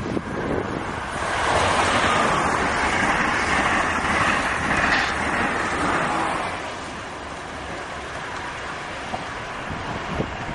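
Amtrak Acela Express high-speed train passing close by at speed: a loud, even rush of wheels on rail and air that builds about a second in and falls away after about six seconds, leaving a quieter steady rumble with wind on the microphone.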